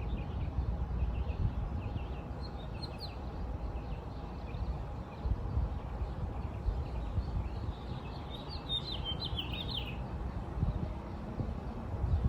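Small birds chirping here and there, with a quick flurry of chirps about eight seconds in, over a steady low rumble.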